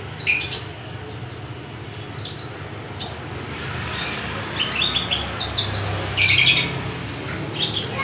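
Caged pet birds, a lovebird and a konin, calling in a string of short, high chirps and squawks with quick up-and-down sweeps. The densest, loudest burst comes about six seconds in.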